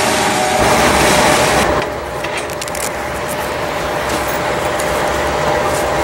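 Freight cars rolling past with loud, steady wheel-on-rail noise, cut off suddenly about two seconds in. Then a quieter steady rumble with a faint steady tone and scattered clicks from a freight train approaching in the distance.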